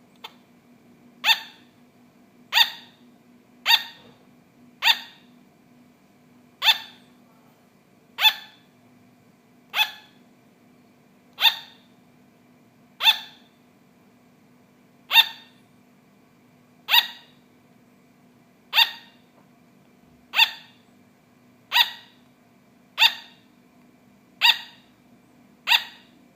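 Sugar glider barking: a long, even series of short, sharp, high-pitched yaps, one every second or two, about seventeen in all.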